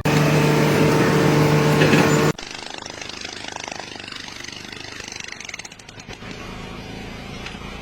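A loud engine or machine running with a steady hum for about two seconds, then an abrupt cut to much quieter steady background noise.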